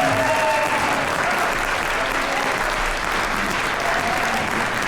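Audience applauding steadily, with the singers' final held chord dying away in the first half second.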